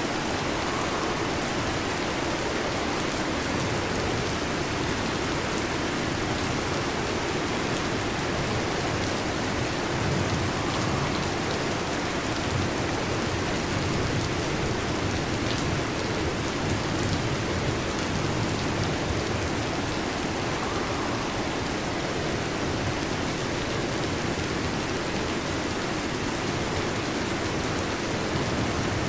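Heavy rain drumming steadily on a metal roof, an unbroken hiss of drops.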